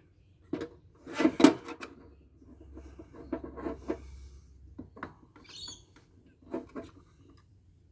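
Irregular knocks, clicks and clatter of a stuck component being tugged and worked loose inside a scrapped solar inverter, loudest about a second in, with a brief scrape in the middle.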